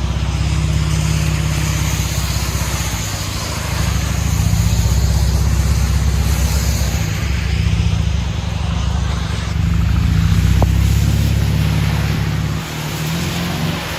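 A 2013 Chevy Camaro's 3.6-litre V6 running through a true dual exhaust with Vibrant bottle resonators, its deep exhaust note swelling and easing under load, louder from about three and a half seconds in and dropping back near the end. A steady hiss runs underneath throughout.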